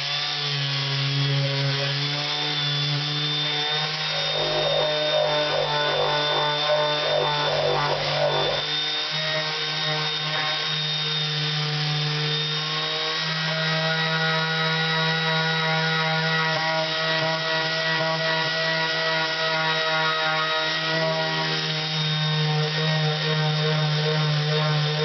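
Hand-held electric power tool running steadily with sanding paper against a Honda CX500 cylinder head, taking old paint off the gasket surface. Its motor tone wavers for a few seconds near the start, then settles.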